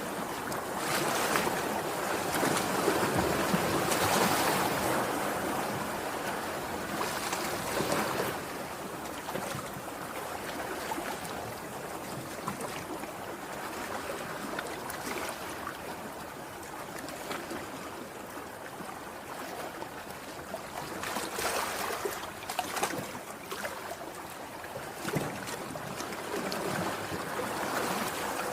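Sea waves breaking and washing ashore in a steady rush of surf. The surge is loudest in the first few seconds and swells again past the twenty-second mark.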